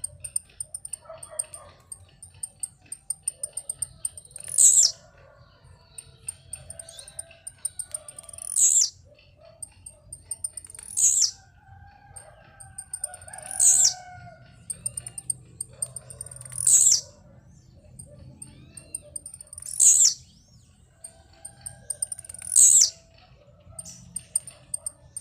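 Blue-black grassquit (tiziu) giving its short, high, downward-sweeping song seven times, about once every three seconds, as it does with its leaping display. Between songs a faint rapid high ticking and softer calls of other birds go on.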